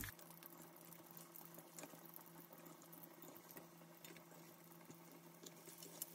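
Faint sizzle and crackle of breaded pork cutlets frying in sunflower oil in a pan, with a few faint ticks and a low steady hum underneath.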